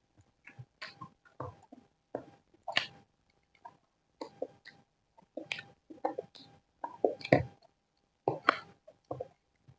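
Close-miked eating of fried rice: irregular wet chewing and lip-smacking sounds, a short sharp burst every half second or so. A faint steady hum runs underneath.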